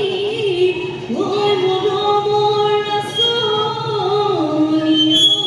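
Live singing with musical accompaniment: a voice holding long notes that step up and down in pitch, over a steady low backing.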